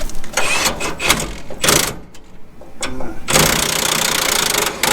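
Impact wrench (impact gun) hammering on the truck's tank-mount bolts: a few short bursts, then one steady run of about a second and a half near the end.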